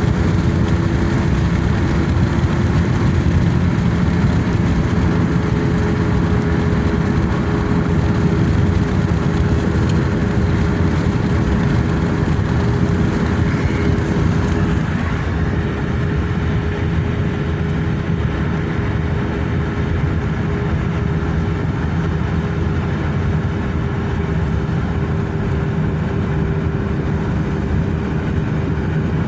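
A car on the move: steady engine and road noise with a constant low hum.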